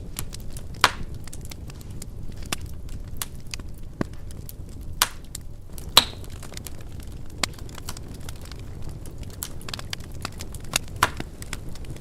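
Wood fire crackling in a fireplace: a steady low rumble of flames with many sharp pops and snaps, a few of them much louder.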